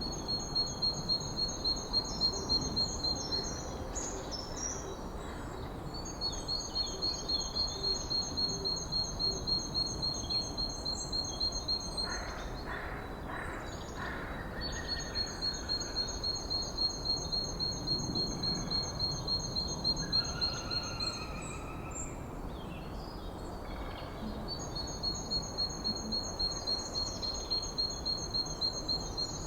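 Forest birdsong: one bird repeats a long, high, pulsing trill four times, each lasting several seconds with short gaps between, while other birds give softer, lower calls in between. A steady hiss of background noise lies underneath.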